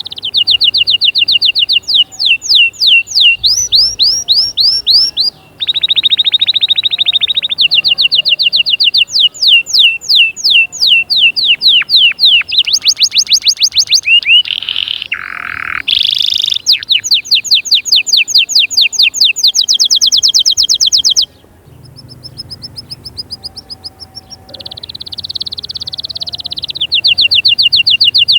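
Canary singing: long trills of rapidly repeated notes, switching from one trill to another every few seconds. It drops quieter for a few seconds past the middle, then comes back loud.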